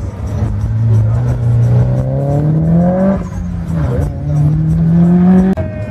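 Subaru Impreza's turbocharged flat-four engine accelerating hard on track, its note climbing steadily. About three seconds in the pitch drops at a gear change, then climbs again in the next gear before cutting off suddenly near the end.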